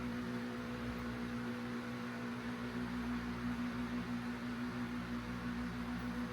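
A steady machine hum with an even hiss, holding one low tone throughout without change.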